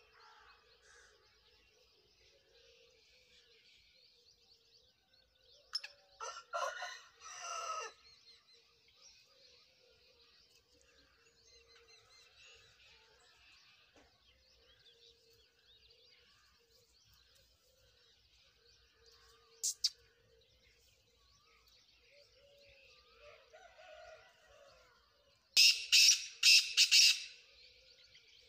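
Black francolin giving its harsh, grating multi-note call twice: once about six seconds in and again, louder, near the end. Small birds chirp faintly throughout, over a steady faint hum.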